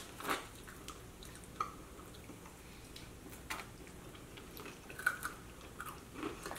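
Chewing and biting into sauced chicken wings close to the microphone: quiet wet mouth sounds with scattered small clicks and smacks.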